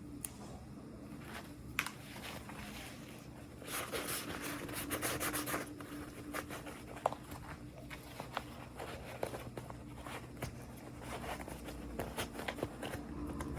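Hands handling and unwrapping small plastic toy packaging: a stretch of rustling about four seconds in, with scattered light clicks and taps of small plastic pieces throughout.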